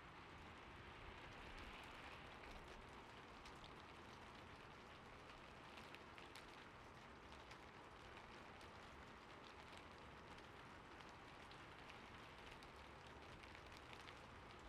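Gentle, steady rain, faint, with scattered light ticks of drops.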